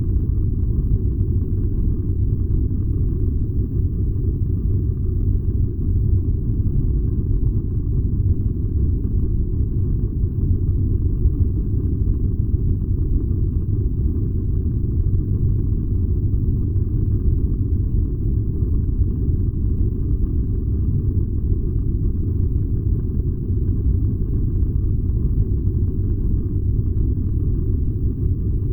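Furnace fire burning with a steady low rumble, even and unchanging, with no crackles or pops.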